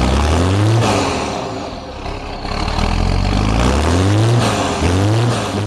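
Vintage tractor engine revving hard, its pitch rising and falling three times.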